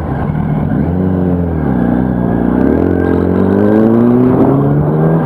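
Motor vehicle engine pulling away from a stop. Its pitch rises briefly about a second in, drops back, then climbs steadily as it accelerates.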